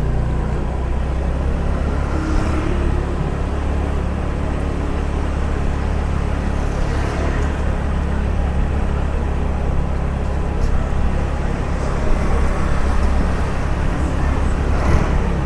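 Steady low drone of a car's engine and road noise heard from inside the cabin while driving slowly in traffic.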